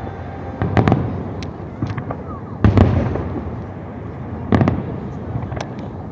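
Fireworks salute shells bursting: three loud booms roughly two seconds apart, each trailing off in an echoing rumble, with smaller sharp cracks in between.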